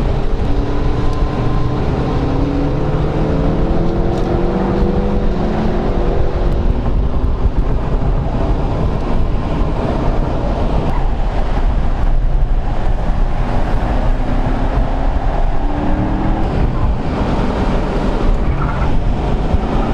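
Car engine heard from inside the cabin under hard driving on a track, its pitch climbing again and again as it accelerates through the gears, over heavy road and wind rumble.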